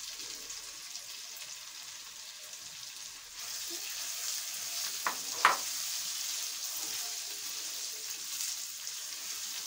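Sliced bitter gourd (karela) sizzling in hot oil and masala in a nonstick wok, stirred with a silicone spatula. The sizzle gets louder about a third of the way in as the stirring starts. Two short scrapes of the spatula come about halfway through.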